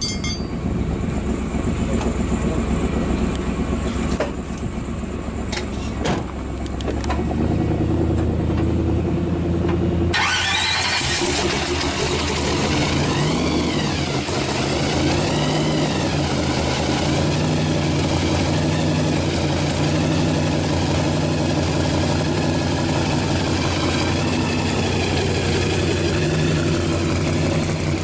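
Supercharged 352 cubic inch V8 of a 1984 Camaro Z28 pro street car running. It gives a low rumble at first, then about ten seconds in turns suddenly harsher and brighter. After that it idles with several rev blips whose whine rises and falls.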